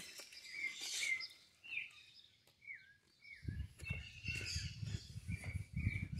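Wild birds chirping, with short calls and a couple of quick falling notes. About halfway in, a low, uneven rumble comes up on the microphone.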